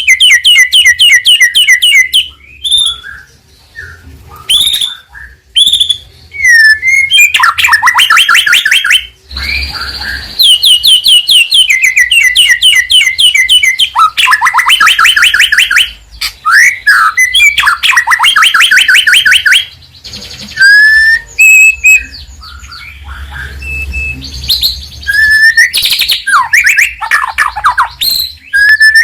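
White-rumped shama (murai batu) singing loudly, in full 'gacor' song: long runs of rapid repeated notes, several a second, broken by short whistled phrases that slide up or down and by brief pauses.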